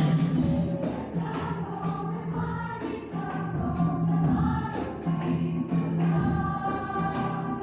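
Choir singing, a steady low bass line held under shifting upper voices, with sharp percussion strokes about once a second.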